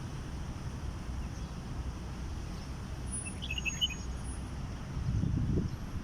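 Small birds chirping: a quick burst of short high chirps about halfway through, with a few thin high notes. Under it a steady low rumble of distant city traffic, which swells louder near the end.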